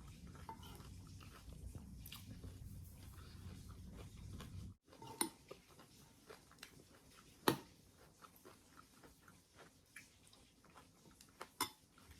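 A person chewing and crunching breakfast cereal close by, with a few sharp clicks. A low steady rumble under the first five seconds cuts off abruptly.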